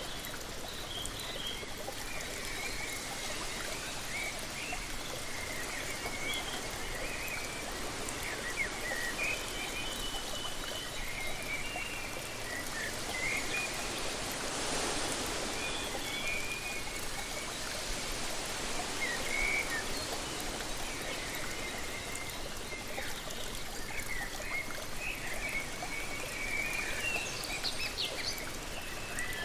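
Steady rush of a waterfall, with small birds chirping on and off over it. About halfway through the rushing swells briefly.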